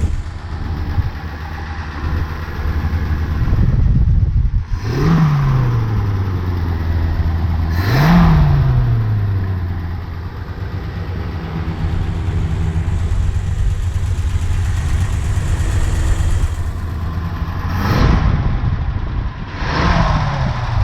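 1936 Ford Deluxe's flathead V8 idling, its throttle blipped four times so the engine note rises quickly and falls back slowly to idle.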